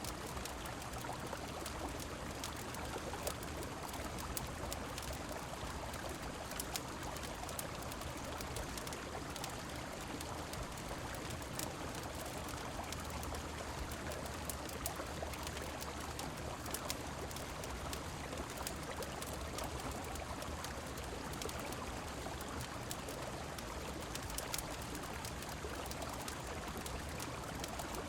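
Steady rushing of river water mixed with falling rain, with many small sharp clicks scattered through it.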